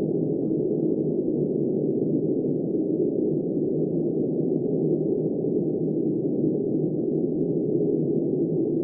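Steady wind noise, muffled and deep, a constant even rush with no gusts or other sounds in it.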